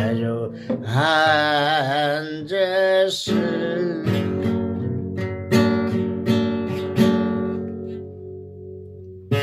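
Acoustic guitar accompanying a voice singing a long held note with vibrato; about three seconds in the voice stops and the guitar plays a few strummed chords that ring out and fade as the song ends.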